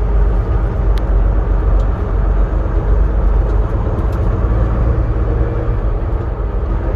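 Semi-truck's diesel engine running with a steady low rumble, with one short click about a second in.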